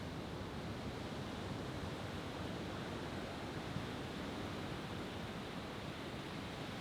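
Steady, even rushing background noise with no firework bursts.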